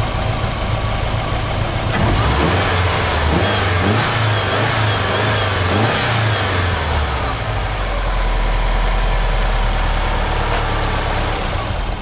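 Subaru flat-four engine revved several times, its pitch rising and falling, then settling back to a steady idle about two-thirds of the way in. The revs keep the engine from stalling while upper engine cleaner is drawn into the intake manifold through an open vacuum port.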